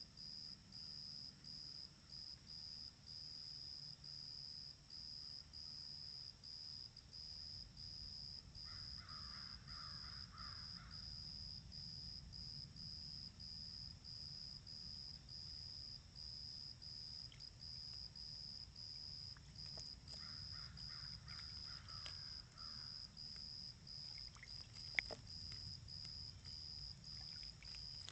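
Steady, even high chirping, about one and a half chirps a second, typical of a cricket, with two short rougher bursts of calling partway through and one sharp tap or splash near the end.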